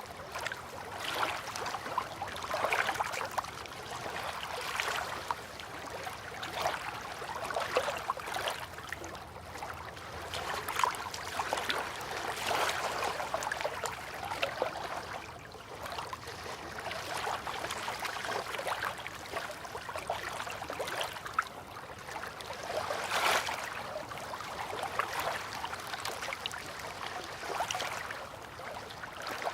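Water lapping and trickling, with small irregular splashy swells every second or two.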